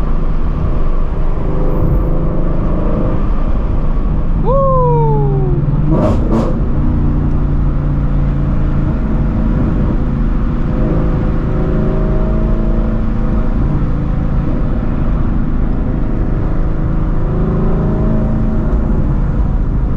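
Straight-piped Shelby GT350's 5.2-litre flat-plane V8 exhaust droning steadily at highway cruise from inside the car, with road noise. About four and a half seconds in, a short falling tone sounds, followed by a few sharp clicks.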